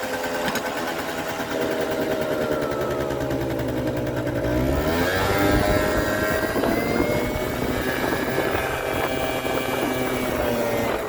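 Kymco Super Fever ZX 50cc two-stroke scooter engine running and being revved: its pitch climbs about five seconds in, holds at a higher speed, and drops back near the end.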